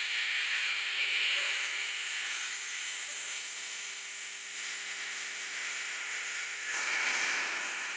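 Bonfire of wood and scrap burning with a steady hiss. A faint low hum of several steady tones joins about halfway through and stops abruptly near the end.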